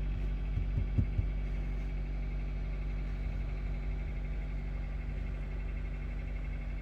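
Steady low drone of a car's engine and road noise heard from inside the cabin while driving, with a few soft low thumps about a second in.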